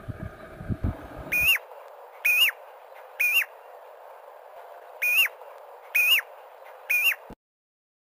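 A bird whistling six short, clear notes about a second apart, each note rising and then dropping. The sound cuts off suddenly near the end.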